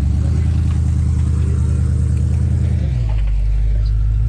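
Jeep Wrangler YJ engine running steadily at low revs while rock crawling, its note dropping about three seconds in.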